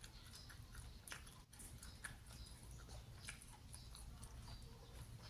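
Faint chewing: a person eating, with soft, irregular clicks and crunches from the mouth.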